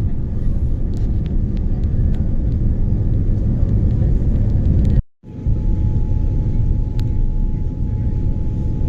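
Cabin noise inside a Boeing 787 airliner: a loud, steady low rumble of engines and airflow. A few faint ticks come through in the first half. The sound cuts out briefly about five seconds in, and after that a thin steady tone sits over the rumble.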